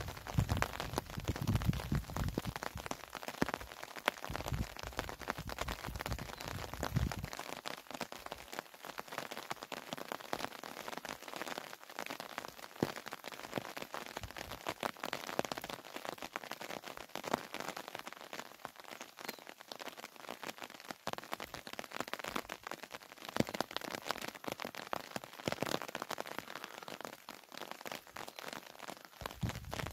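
Steady rain falling, with many separate drops striking close by in a dense, irregular stream of small ticks. A low rumble runs under it for roughly the first seven seconds.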